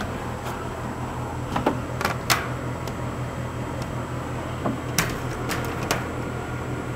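Scattered sharp clicks and light knocks, about eight in all, the loudest about two seconds in and again about five seconds in, over a steady low hum.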